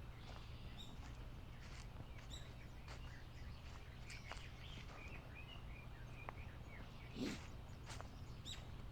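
Small birds chirping in short high notes, over the steady tread of footsteps on a trail. A louder thump comes about seven seconds in.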